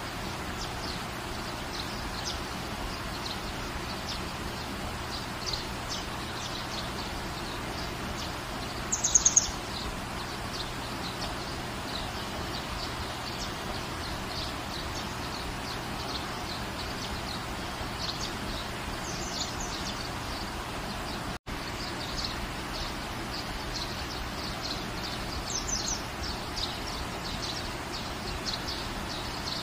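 Steady rain falling, with small birds chirping throughout and a louder, high bird call three times: about a third of the way in, around two-thirds, and near the end. The sound cuts out for an instant shortly after the second call.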